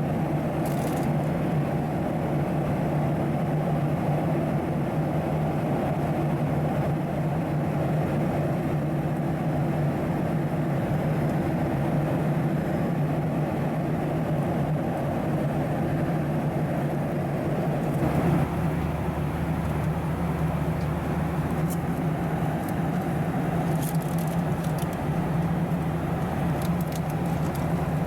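Cabin noise aboard a Boeing 737-700: a steady drone of engines and airflow with a constant hum. About eighteen seconds in, the low rumble shifts to a new pitch.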